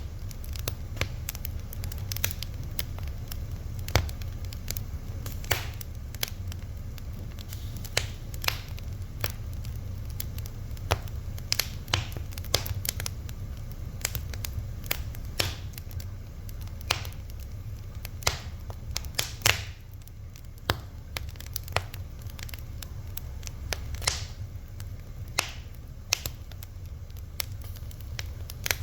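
Fire crackling: irregular sharp pops and snaps, several a second, with a few louder cracks, over a low steady rumble of flame.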